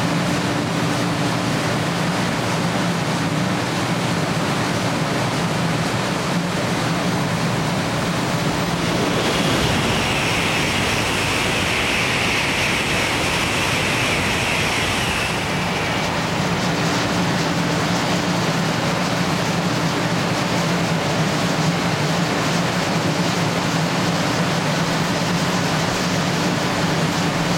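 N700-series Shinkansen train passing through a station at high speed: a steady, loud rush of air and wheel noise with a low hum under it, and a brighter hiss added for about five seconds in the middle.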